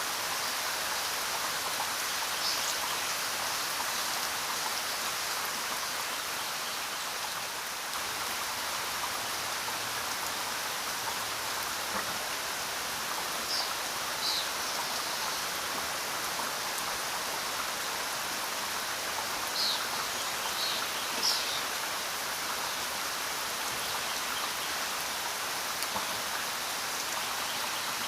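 Steady rainfall, an even hiss without a break. A few brief high-pitched chirps stand out over it: one near the start, two a little before the middle, and two about two-thirds of the way through.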